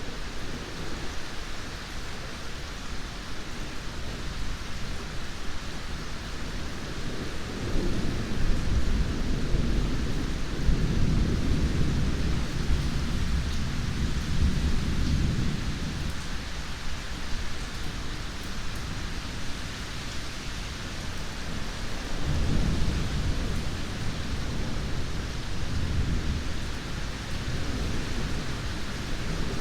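Steady heavy rain with rolling thunder: a long low rumble from about seven seconds in, and a second, shorter one later.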